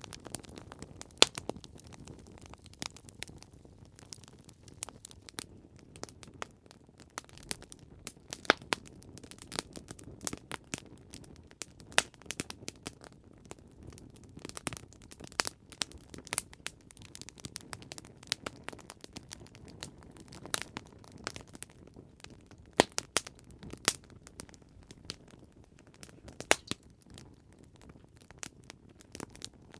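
Wood campfire crackling steadily: irregular sharp pops and snaps over a soft hiss of burning, with a few louder pops.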